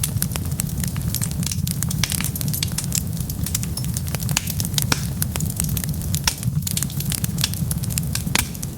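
Wood fire burning steadily, with dense irregular crackles and pops over a low steady rumble.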